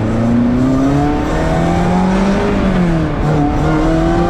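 Supercharged 2-litre Honda K20 four-cylinder engine of an Ariel Atom accelerating, its note climbing steadily, dropping at a gear change about two and a half seconds in, then climbing again.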